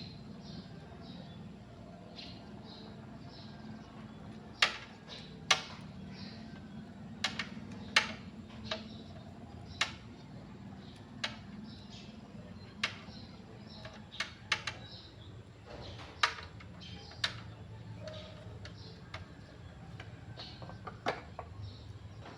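Irregular sharp clicks and taps, about a dozen spread unevenly, over a low steady hum and faint bird chirping.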